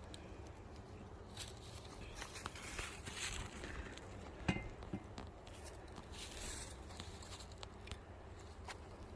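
Faint rustling and scraping of hive parts being handled and pried open, with a sharp knock about four and a half seconds in.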